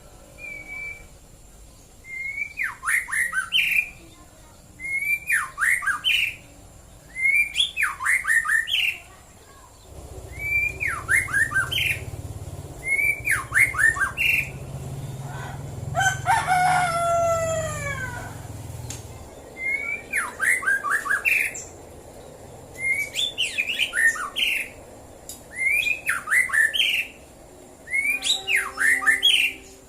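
White-rumped shama singing, repeating a short phrase of quick rising whistled notes about every two seconds. Midway a different falling call sounds once over a low rumble.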